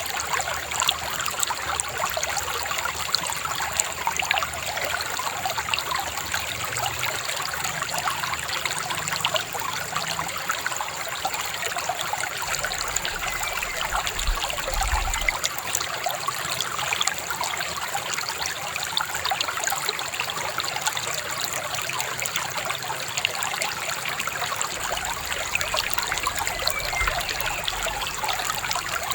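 Shallow river babbling and trickling over stones, a steady, even flow of water.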